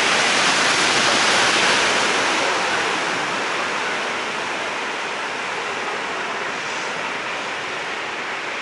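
Heavy rain pouring onto a flooded street, a dense steady hiss that eases slightly about three seconds in.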